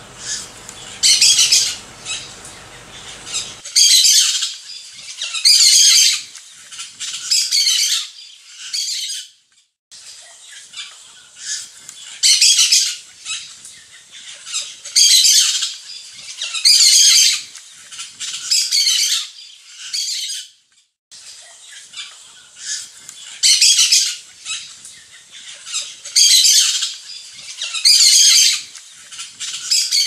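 Bird calls: loud, high-pitched squawks of about half a second each, repeating every second or two in a pattern that loops.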